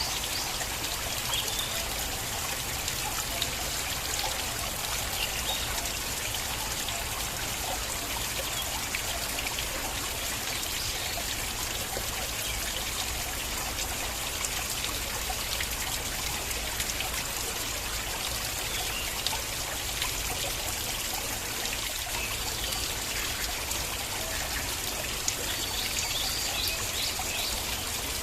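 A water stream flowing and trickling steadily, with small scattered splashes.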